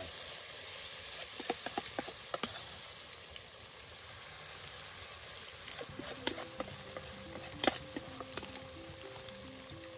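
Saltfish fritters frying in hot oil, a steady sizzle, with a scattering of sharp clicks and knocks about one to two seconds in and again past the middle, the loudest about three-quarters of the way through.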